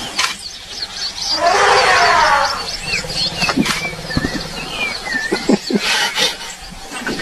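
Animal calls: many short, high chirps throughout, a loud call lasting about a second just over a second in, and scattered sharp clicks.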